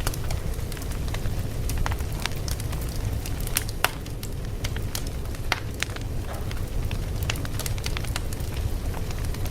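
Fire crackling: a steady low rumble with many irregular sharp pops and snaps, several a second, a few louder ones standing out.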